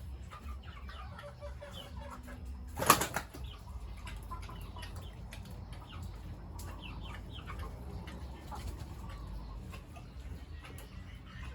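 Farmyard background of birds chirping, with one short, loud rush of noise about three seconds in.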